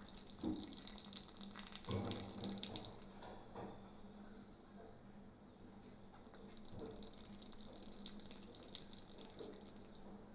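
A bird bathing, splashing and fluttering in shallow water in two bouts of a few seconds each, the second starting about six seconds in.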